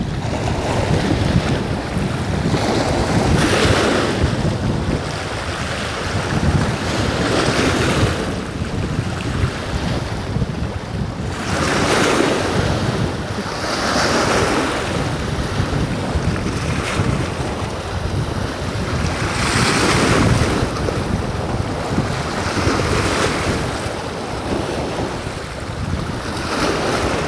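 Sea waves washing in surges every few seconds, with wind rumbling on the microphone.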